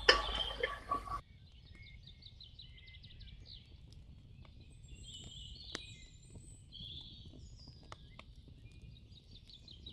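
Faint birds chirping, with repeated high chirps and short trills. A louder hum in the first second cuts off suddenly.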